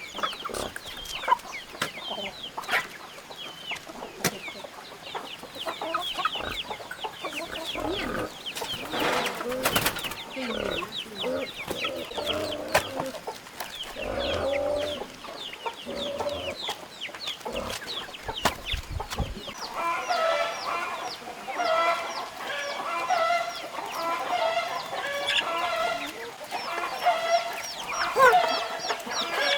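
A flock of chickens clucking, with many short high peeps throughout. About two-thirds of the way in, a run of rapid repeated calls starts.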